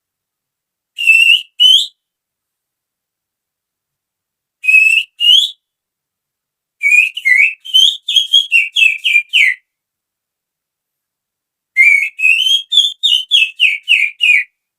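A person whistling through the fingers in imitation of a female oriental magpie-robin's call. Two short rising whistles come first, two more follow a few seconds later, then two quick runs of about ten chirpy notes each, the later notes sliding downward.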